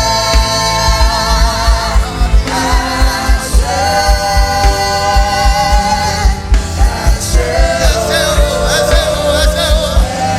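Gospel worship music: voices holding long sung notes over a live band, with a steady bass-drum beat.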